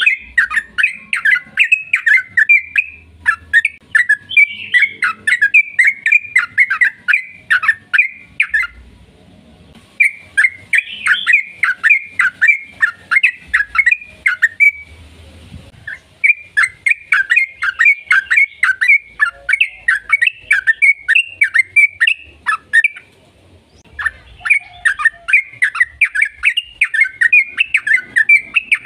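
Yellow-vented bulbul (trucukan) singing long, fast runs of chattering notes in four bouts separated by short pauses.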